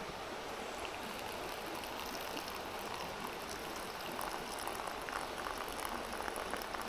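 Steady rush of a mountain stream, with a run of small clicks over it in the second half.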